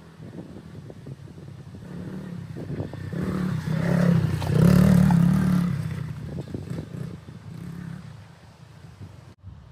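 Minibike engine running as it passes by: it grows louder to a peak about four to five seconds in, then fades away, with scattered knocks and rattles.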